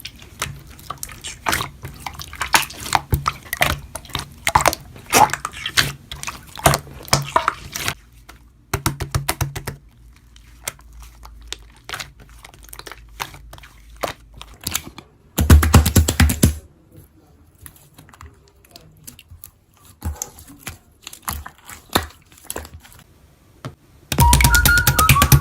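Slime being squished and poked with the fingers: a run of quick sticky clicks and pops, dying down to scattered ticks after about eight seconds. A short loud burst of squishing comes about two thirds of the way through, and background music starts just before the end.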